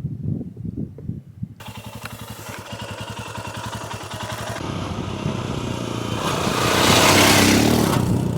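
Royal Enfield Scram 411's single-cylinder engine running as the motorcycle rides. Wind rush on the microphone builds from about a second and a half in to a peak near the end.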